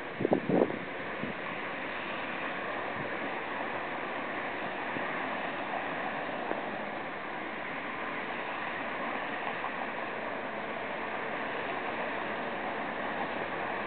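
BNSF freight train's cars rolling past at speed, a steady even rushing noise with no horn or distinct clacks.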